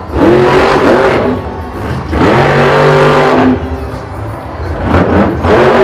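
Car engine revving loudly, rising in pitch three times about two to three seconds apart and holding between revs.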